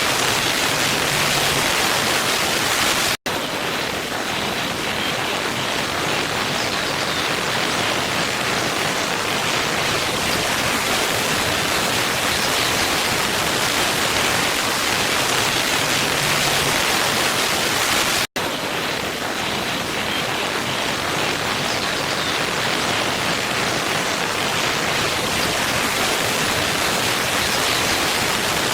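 Waterfall rushing: a steady, loud wash of falling water. It cuts out for an instant twice, about three seconds in and again some fifteen seconds later, where the recording is looped.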